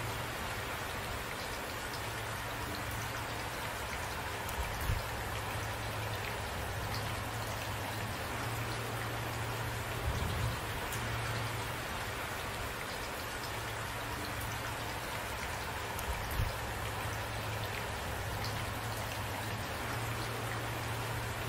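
Steady rain falling, with drops pattering on a surface and a few brief low knocks at intervals.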